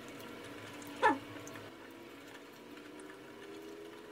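Quiet mouth sounds of a man chewing a bite of soft French toast, with one short squeak that drops sharply in pitch about a second in.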